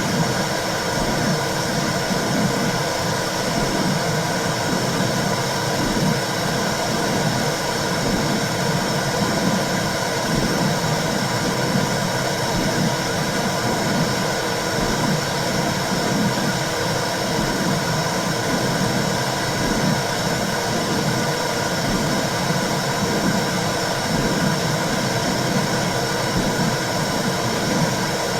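Simulated womb sound for calming babies: a steady whooshing hiss with a low, rhythmic pulsing whoosh underneath, like blood flow and heartbeat heard from inside the uterus.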